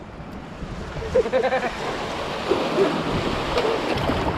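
Ocean surf washing onto a sandy beach, a steady rushing wash that swells about a second in.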